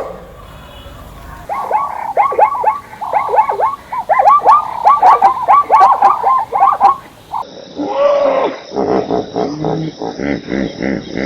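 An animal calling in quick, repeated short calls that each drop in pitch, several a second; after a cut, another run of lower, pitched animal calls follows.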